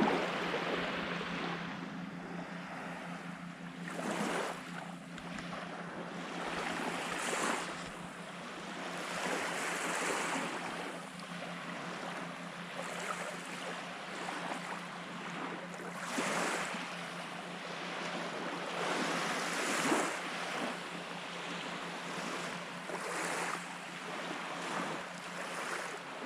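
Small waves washing onto the beach, swelling every few seconds, with wind on the microphone and a steady low hum underneath.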